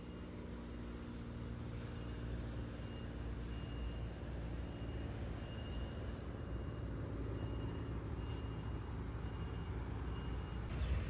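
Heavy vehicle engine running with a steady low rumble while a high-pitched reversing alarm beeps a little more than once a second.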